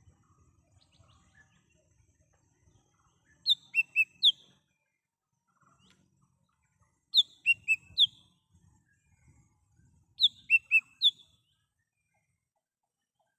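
A cucak hijau mini (small green leafbird) calling: three short phrases a few seconds apart, each a quick run of four sharp, high whistled notes.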